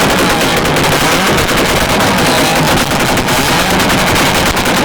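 Several tuned car engines, a Mark IV Toyota Supra among them, revving together, with a rapid, machine-gun-like string of exhaust pops and bangs over a low engine rumble.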